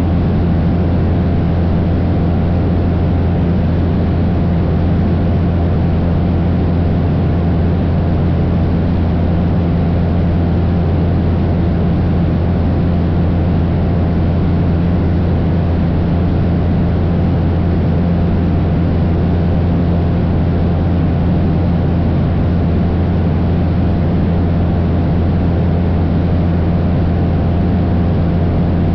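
Cessna 172's piston engine and propeller running steadily at constant power, a loud, even low drone with no change in pitch.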